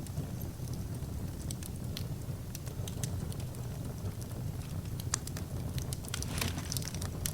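Wood fire crackling: irregular sharp pops and snaps over a steady low rumble, with a quick flurry of pops about six to seven seconds in.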